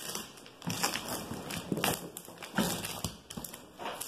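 Cardboard box being opened by hand: flaps and packing rustling and crinkling in uneven scrapes and crackles.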